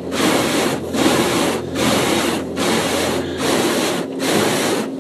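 Automated car wash brushes scrubbing over the car, heard from inside the cabin: a loud, steady rubbing swish that dips in an even beat a little more than once a second.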